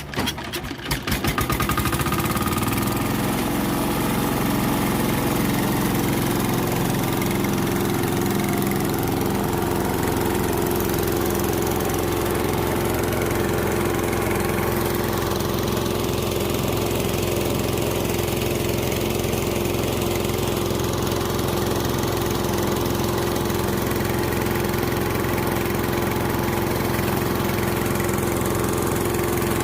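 An engine catches in the first second or two and then idles steadily.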